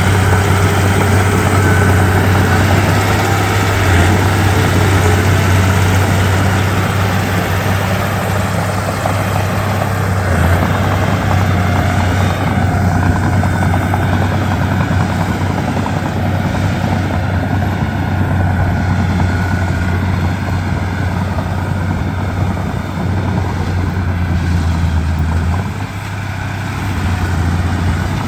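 Komatsu D31P crawler bulldozer's diesel engine running steadily with a deep throb, dipping briefly a little before the end.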